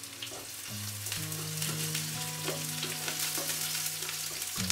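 Sliced onion and garlic sizzling in hot oil in a nonstick frying pan, stirred with a wooden spatula, over soft background music of held notes.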